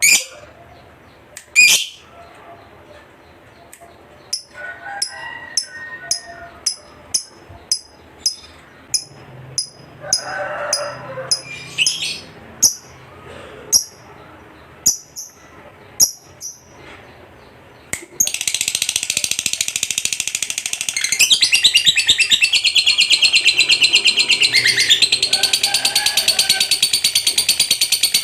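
Lovebird giving sharp single high chirps at irregular intervals, then about 18 s in breaking into its long, loud, very rapid continuous chattering song (the 'ngekek').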